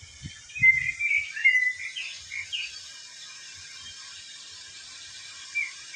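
Small birds chirping: a quick run of short tweets from about half a second to three seconds in, and a few more near the end, over a steady hiss.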